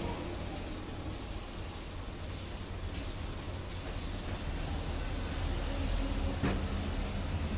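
Spray paint hissing out of an aerosol can in short repeated bursts, roughly two a second, over a steady low rumble.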